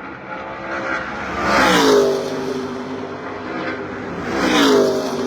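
Two NASCAR Truck Series race trucks' V8 engines at full throttle passing one after another, about two and a half seconds apart, each pitch dropping sharply as it goes by.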